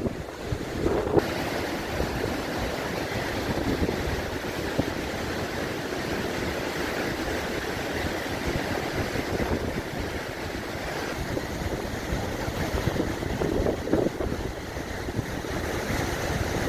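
Sea surf washing on the shore with strong wind buffeting the microphone in low, irregular gusts.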